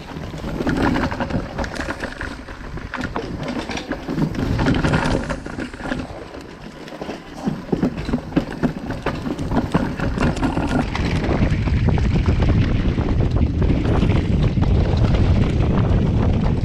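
Wind buffeting a chest-mounted GoPro at speed on a downhill mountain bike, with tyres on dirt and the bike clattering over rough ground in quick irregular knocks. The deep wind rumble grows heavier about eleven seconds in.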